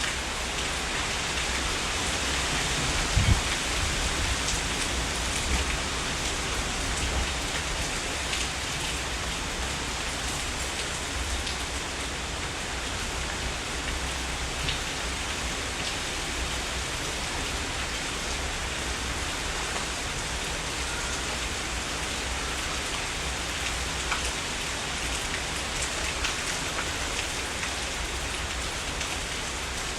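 Heavy rain falling steadily, a dense even hiss with scattered louder drops ticking through it and a low rumble underneath. A single sharp knock sounds about three seconds in.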